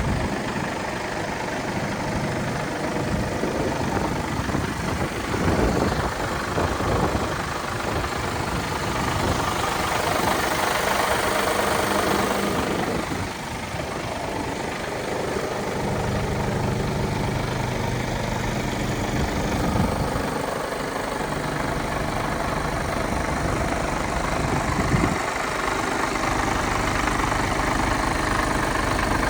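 Mercedes Actros MP5 truck's straight-six Euro 6 diesel engine idling steadily.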